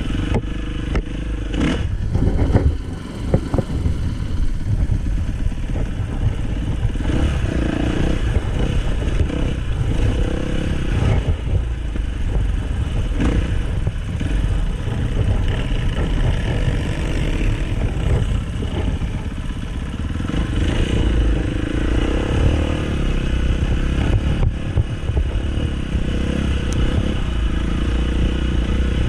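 Dirt bike engine running along a trail, the revs rising and falling as the rider works the throttle, with clattering mixed in.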